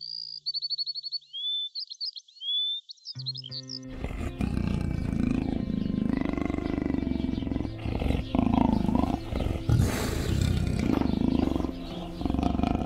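Birds chirping and whistling for the first few seconds, then from about four seconds in a big cat growling and roaring loudly and continuously, over background music.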